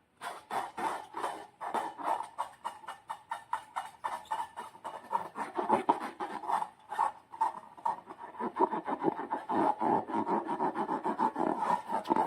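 Slime being squished and worked by hand, a quick run of sticky, wet squelches and clicks, several a second.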